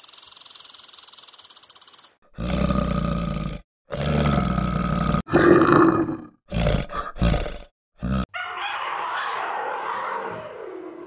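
A large animal growling and roaring in a series of separate deep, rough calls, after about two seconds of high hissing.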